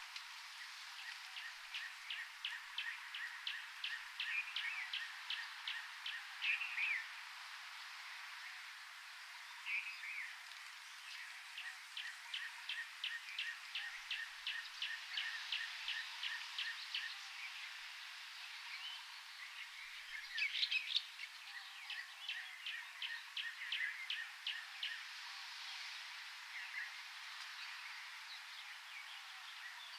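Birds calling in a tropical forest: runs of sharp, rapid chips at about four or five a second, broken by a few short warbled phrases, over a faint steady hiss.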